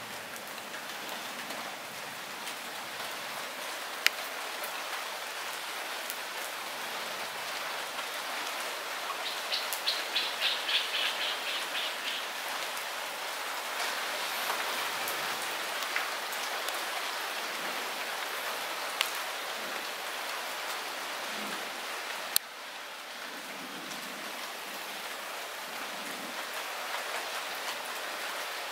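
Light rain falling steadily, a continuous hiss with a few sharp drip taps. About ten seconds in, a short rapid high-pitched trill sounds over the rain.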